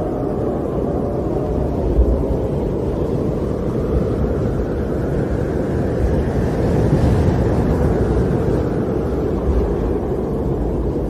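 Storm wind blowing in a steady, low rush that swells and eases, rising a little about two-thirds of the way through.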